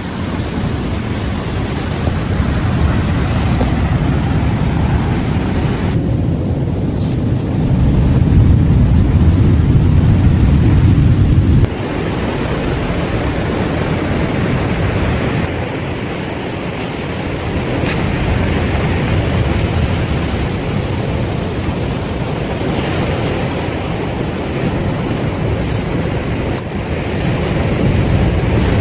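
Ocean surf washing in with wind buffeting the microphone: a heavy, low rushing noise that swells and eases, dropping suddenly about twelve seconds in.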